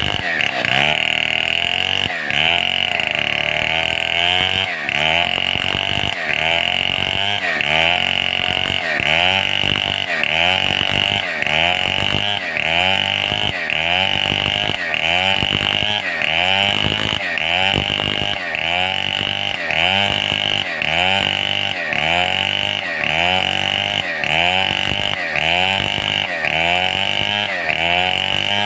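Stihl 070 two-stroke chainsaw cutting timber under load, its engine note dipping and recovering in a steady rhythm a little faster than once a second.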